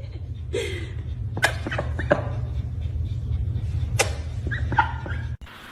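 Several short, sharp kiss smacks from a person kissing a duck, over a low steady rumble.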